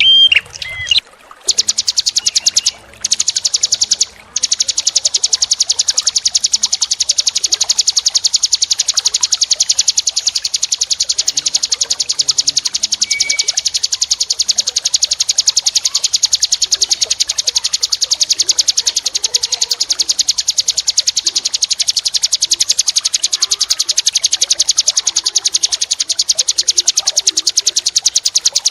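A small songbird singing a long, very fast, high trill of evenly repeated strokes, after a few short whistled notes at the start.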